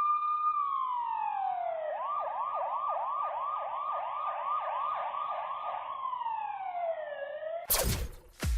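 Cartoon emergency-vehicle siren: a single tone falls slowly, switches to a fast yelp rising and falling about three times a second, then falls slowly again. Near the end, an electronic dance beat with heavy bass thumps starts abruptly.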